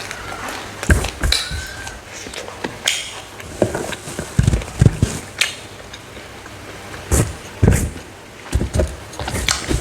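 Close-miked eating of smoked, dried frog: chewing and crunching with irregular sharp clicks and a few heavy low thumps.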